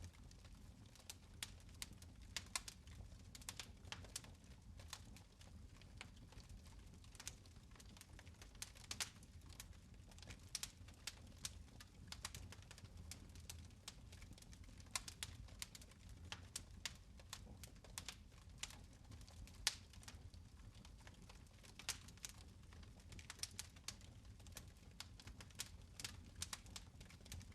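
Fire in a fireplace crackling softly: irregular faint pops and ticks, several a second, over a steady low hum.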